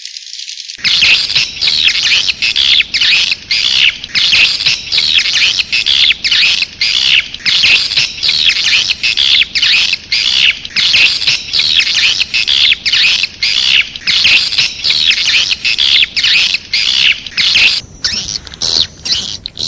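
Swiftlet calls from a recorded lure track made to draw swiftlets to a nesting house: dense, rapid chirping and twittering in quick bursts about twice a second, starting about a second in.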